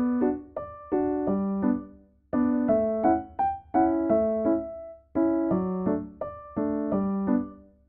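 Background piano music: short phrases of a few notes each, each fading away briefly before the next begins.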